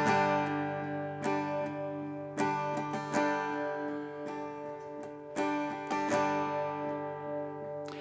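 Acoustic guitar strumming slow, ringing chords as the instrumental introduction to a hymn, with a fresh strum every second or so.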